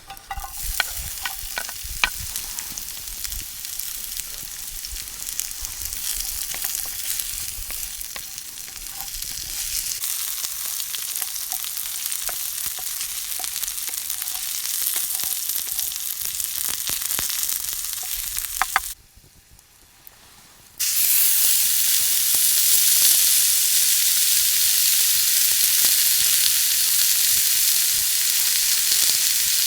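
Food sizzling in a pan over a campfire, with scattered sharp pops. The sizzle drops away for about two seconds around two-thirds of the way in, then comes back louder and steadier.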